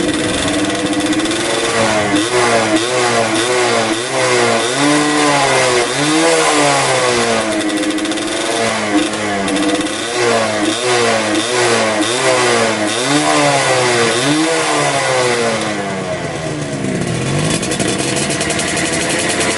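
Two-stroke single-cylinder motorcycle with a gutted (bobokan) exhaust, revved in repeated quick throttle blips so the pitch rises and falls about once a second. Near the end the revs fall away in one long glide and it settles to a steady idle.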